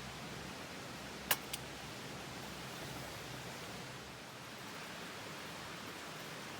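Steady rushing hiss with two sharp pops about a quarter second apart just over a second in, the first louder, like firewood popping in an open campfire.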